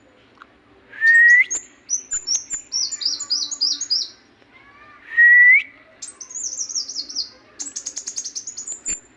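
Songbird singing: a loud rising whistle followed by a quick run of high, repeated chirps, given twice.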